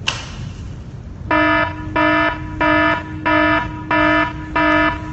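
A brief swish at the start, then, from about a second in, an electronic alarm beeping in a steady pulse, about three beeps every two seconds.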